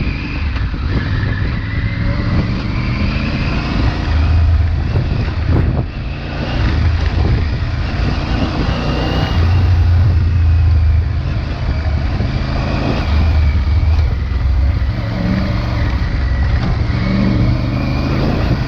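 Triumph Tiger 900 Rally Pro's 888 cc T-plane inline-three engine on its stock exhaust, ridden off-road, its note swelling and easing several times as the throttle is worked. There is a short dip about six seconds in.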